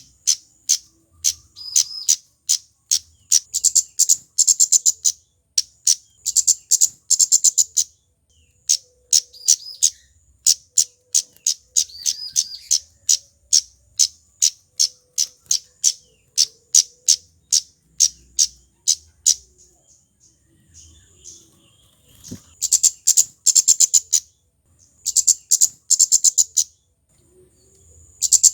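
Male flowerpecker (kemade, 'cabe-cabean') calling: high, sharp chips, some spaced and some run together into fast rattling trills. There is a short lull about two-thirds through.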